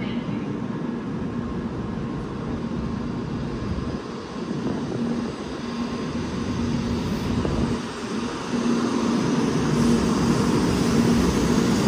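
N700 series 8000 Shinkansen train (eight cars) pulling out of a station and gathering speed, with a steady low hum under a broad rushing noise. It grows louder about two-thirds of the way through as the cars begin passing close by.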